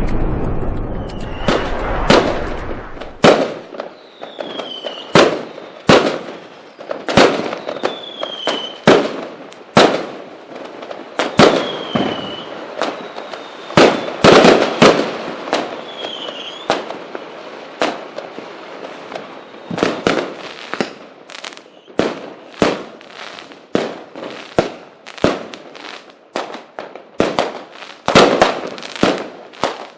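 Fireworks display: a long run of sharp bangs and crackles from bursting aerial shells, opening with a heavy rumbling burst. Several short whistles that fall in pitch ride over the bangs in the first half.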